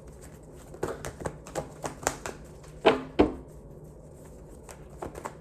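Tarot or oracle cards being handled and shuffled: a quick run of light clicks and snaps, with two louder sharp snaps about three seconds in.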